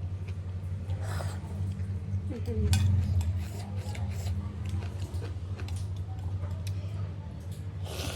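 Close-miked mukbang eating of thukpa noodle soup: short slurps about a second in and near the end, with chewing and light clicks of utensils against the bowl. A steady low hum runs underneath.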